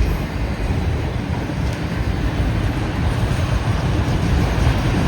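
Freight train's auto-rack cars rolling past, with a steady rumble and rattle of the wheels on the rails.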